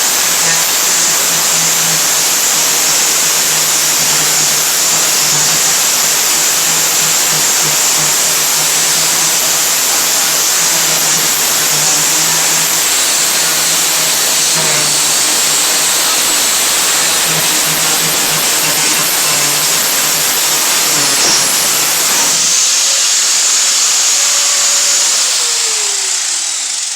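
Electric angle grinder grinding rust off the steel bed of a 1997 Ford Ranger, loud and steady. About 22 seconds in the grinding stops and the grinder winds down with a falling whine near the end.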